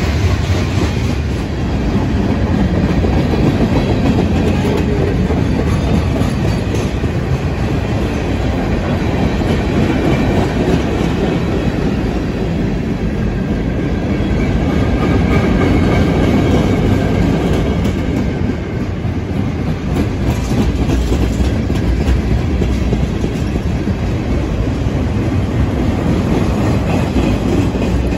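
Freight train's cars, covered hoppers and autoracks, rolling past at close range: a steady rumble of steel wheels on the rails.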